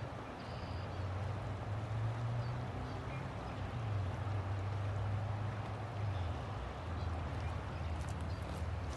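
River water flowing: a steady rushing with a deep low rumble underneath.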